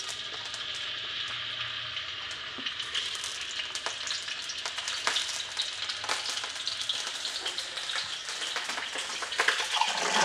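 Dried anchovies (ikan bilis) frying in a little hot cooking oil in a wok: a steady sizzling hiss with scattered small crackles, the fish just added to the oil to be fried until crisp.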